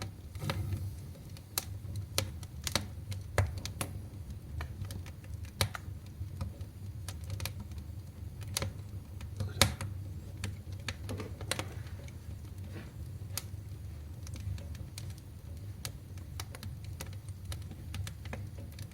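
Firewood crackling and popping in a wood stove, irregular sharp snaps over a low steady rumble, the fire fully caught and burning strongly.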